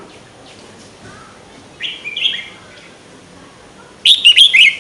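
A songbird singing two short, quick phrases: a softer one about two seconds in and a loud one near the end.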